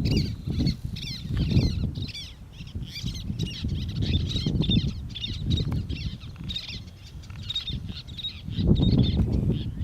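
Birds calling in a steady run of short, high, falling chirps, about three a second. Wind gusts buffet the microphone underneath, loudest at the start and near the end.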